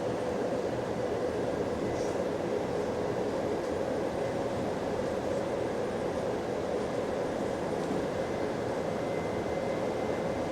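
Steady running noise inside a moving bus: a constant drone from the drivetrain and road, with a faint high whine.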